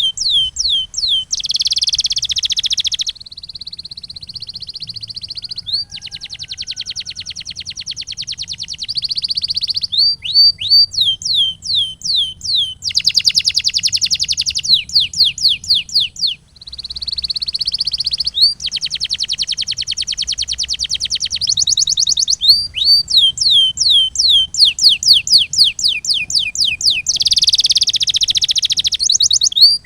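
Domestic canary singing: phrases of repeated downward-sliding whistles, about three a second, alternate with fast rolling trills lasting two to three seconds each.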